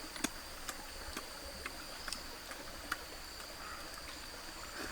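Steady high-pitched insect drone in the background, with scattered faint clicks and ticks.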